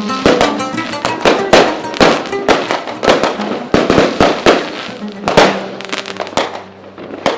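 Fireworks going off in a rapid, irregular series of bangs with echoing tails, over guitar music. The bangs thin out and get quieter near the end.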